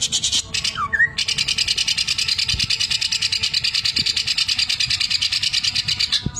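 Cucak ijo (green leafbird) singing a long, fast, even rattle of high notes, about a dozen a second, its imitation of a sewing machine, with a short rising whistle about a second in.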